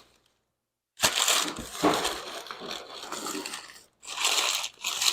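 Hands rummaging through the packing material of a shipping box, a crunching, rustling noise in two spells after a second of silence.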